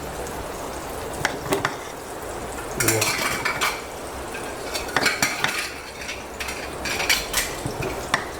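A metal spoon scraping and clinking against a cooking pot as a cooked chicken dum biryani is turned over and scooped, in several short clusters of clinks.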